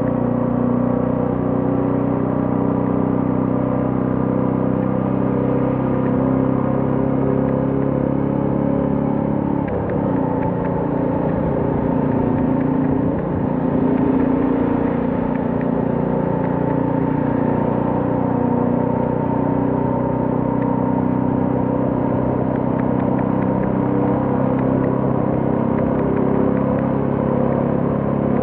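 Royal Enfield Classic 350's single-cylinder engine running steadily, its pitch wavering briefly partway through.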